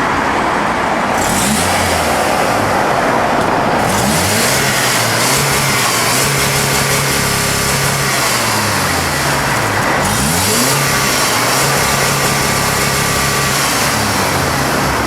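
Car engine being revved and held repeatedly during an HHO hydrogen carbon-cleaning treatment: its pitch rises, holds steady for a few seconds, then falls back, several times over.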